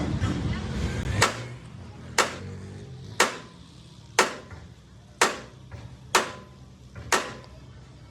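Hammer striking metal, seven sharp blows at a steady pace of about one a second, each ringing briefly.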